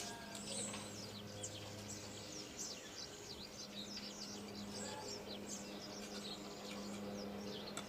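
Small birds chirping outdoors: a dense, continuous run of short, high, quick chirps from several birds, over a steady low hum.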